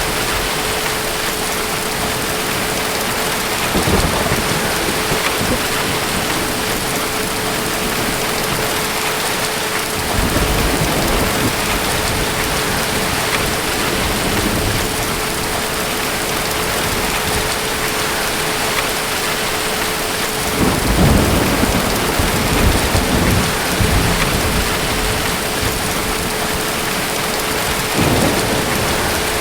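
Steady heavy rain with thunder rumbling low several times, loudest a little past the two-thirds mark and again near the end.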